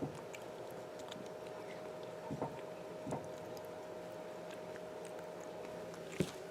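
Cats eating dry kibble from dishes: a few separate sharp clicks and knocks from crunching and bowls, the loudest near the end, over a steady hum.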